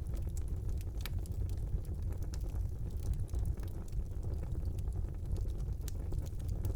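Wood fire burning in a fireplace: a steady low rumble of flames with frequent sharp crackles and pops scattered irregularly, a louder pop about a second in.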